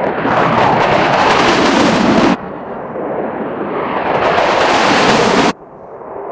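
A loud rushing roar in three stretches, each cut off abruptly: once about two and a half seconds in and again about five and a half seconds in, where it drops away and then swells back.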